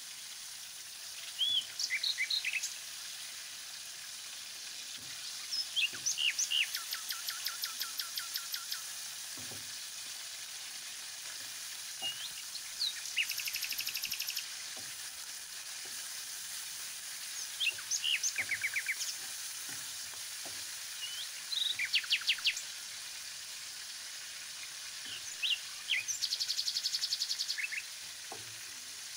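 Lamb chunks frying in oil in a pan, a steady sizzle, with light knocks from a wooden spatula stirring them. A songbird sings short chirping and trilling phrases every four or five seconds, louder than the sizzle.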